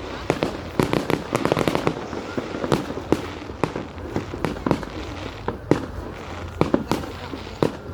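Fireworks going off: a quick run of bangs and crackles in the first two seconds, then scattered single bangs.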